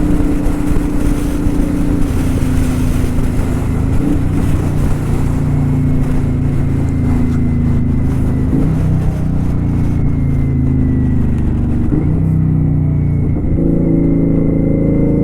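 Kawasaki Vulcan 900 Custom's V-twin engine running under way, its note shifting in pitch a few times as speed changes. Wind rushes over the microphone and dies away about twelve seconds in.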